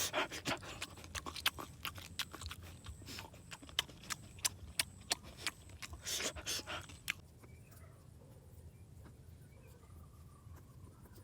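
A quick, irregular run of sharp clicks and knocks for about seven seconds, then quiet with a few faint, wavering high calls.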